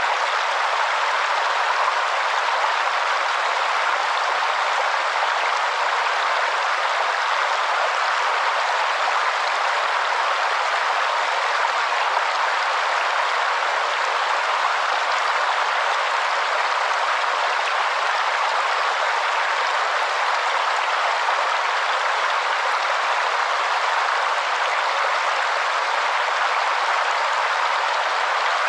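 Waterfall: water falling and rushing in a steady, unbroken hiss, with no deep rumble.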